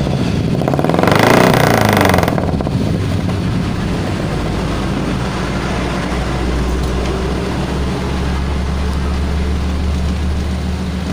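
Carbureted Suzuki Futura engine running through its exhaust: revved once, rising and falling, about a second in, then settling to a steady idle with a deep low rumble.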